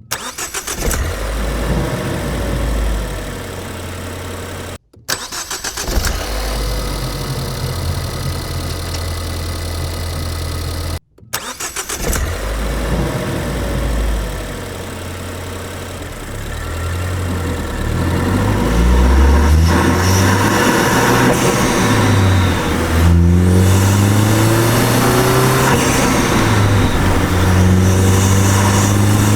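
2013 Ford Focus ST's 2.0-litre turbocharged four-cylinder engine, breathing through a green performance air filter. It idles steadily with two brief cuts to silence, then from about halfway it is blipped repeatedly, the pitch rising and falling with each rev.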